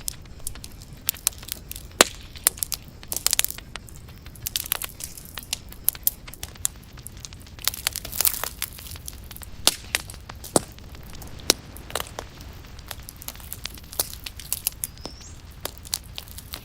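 Fire in a fireplace crackling: irregular sharp pops and snaps over a low steady rumble, with denser bursts of crackling about three seconds in and again around eight seconds.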